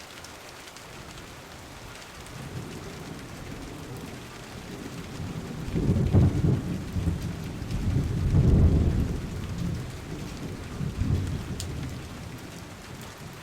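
Steady rain falling, with rolling thunder rumbling under it. The rumbles build and are loudest about six and eight and a half seconds in, with a smaller roll near the end.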